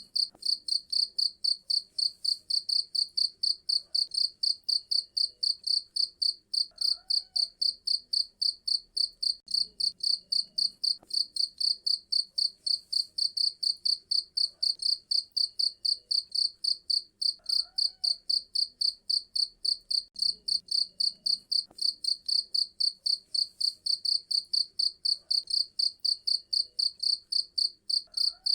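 A cricket chirping in a steady, even rhythm: short high chirps, about four a second.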